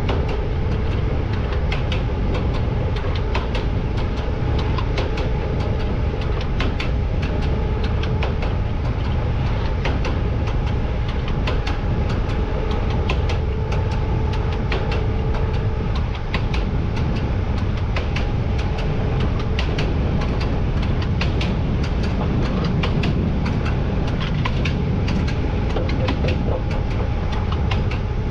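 Siemens Vectron electric locomotive rolling along with a heavy freight train: a steady rumble of wheels on the rails, a faint steady hum at two pitches, and frequent short sharp clicks.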